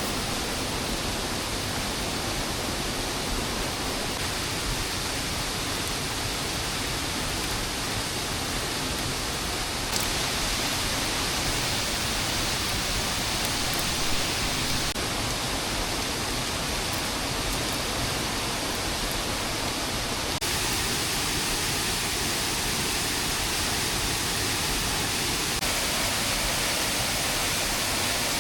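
Steady heavy rain, an even hiss with no distinct drops or other sounds standing out. The hiss turns slightly brighter about ten seconds in and shifts again about twenty seconds in.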